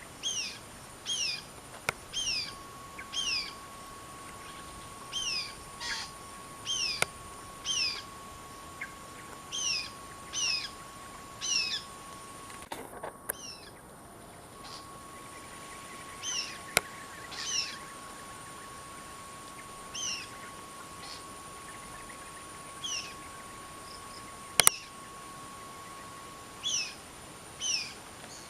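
Parakeet (betet) calling over and over: short, sharply falling calls, singly or in quick pairs about a second apart, with a few pauses. A steady high tone hums underneath, and there are a few sharp clicks, the loudest about 25 seconds in.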